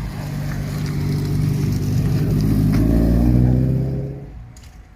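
A car engine accelerating past, its pitch rising a little as it gets louder. It then fades away quickly about four seconds in as the car drives off.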